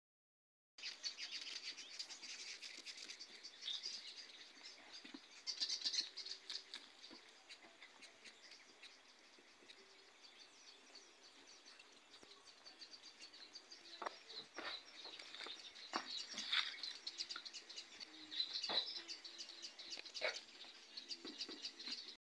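Birds chirping busily in a rapid high twitter. A few sharp knocks come in the second half.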